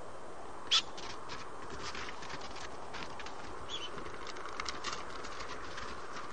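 Short bird chirps: a sharp, loud one about a second in and a fainter one near four seconds, with scattered faint ticks, over a steady hiss.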